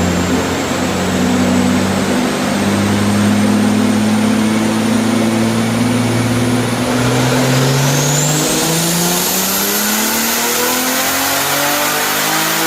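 Car engine under load, its pitch climbing in steps and then rising steadily through the second half. A high whistle rises in pitch about halfway through.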